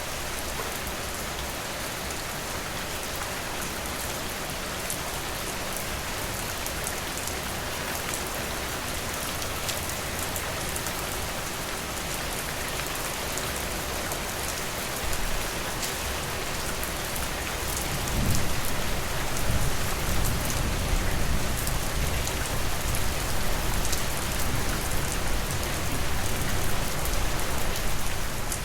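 Steady rain falling, an even hiss with individual drops ticking through it. About two-thirds of the way in, a deep low rumble joins the rain and the sound grows louder.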